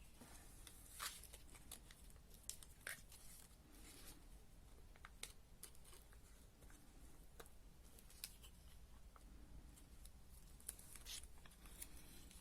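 Near silence with faint, scattered paper rustles and light taps as small pieces of paper are handled.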